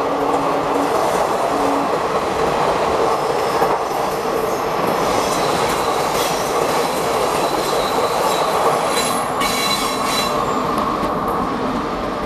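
Passenger train coaches rolling past on curved track: a steady, loud rumble of wheels on rail, with a faint high wheel squeal coming and going in the second half.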